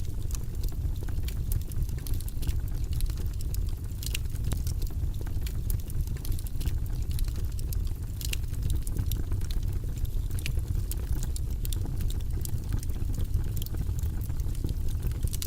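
Wood fire in a fireplace crackling, with frequent small pops and a few louder snaps over a steady low rumble of the flames.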